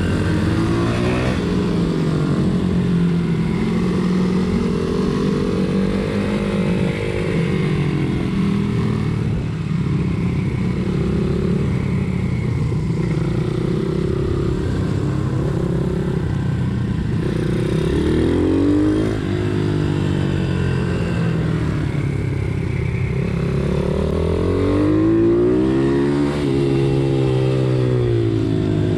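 Pitbike engines racing, revving up and falling back again and again as the bikes accelerate and slow for corners, with more than one engine heard at once. The sharpest climbs come around 18 s and 25 s in.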